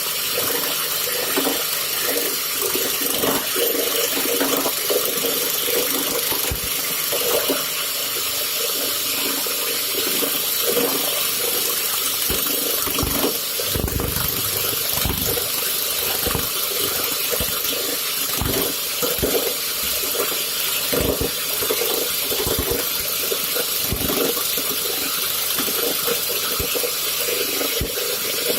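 Woodworking lathe turning a steel ball: a steady hiss of the tool cutting the spinning metal, broken by frequent irregular knocks.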